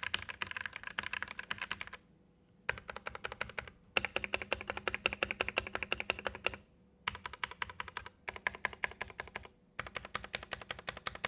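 Typing on a Noir N1 Pro mechanical keyboard with stock Gateron Red linear switches. Keystrokes come in quick runs of many clicks a second, broken by short pauses about two, four, seven and ten seconds in.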